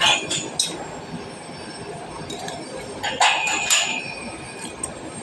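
A few sharp metallic clinks and knocks over a steady background noise: three near the start and two about three seconds in, some ringing briefly as a high tone, as when metal pieces or tools strike each other.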